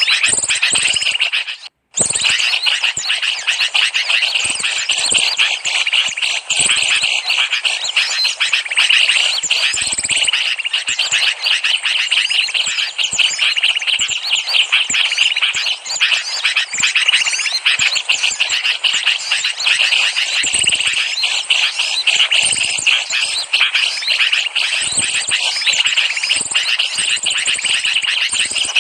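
Bird-lure recording: a dense chorus of many small birds chirping and twittering at once, high-pitched calls overlapping without pause. The sound cuts out for a moment about a second and a half in, then resumes.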